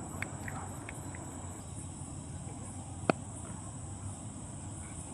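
Insects trilling steadily at a high pitch over low outdoor background noise, with a single sharp crack about three seconds in.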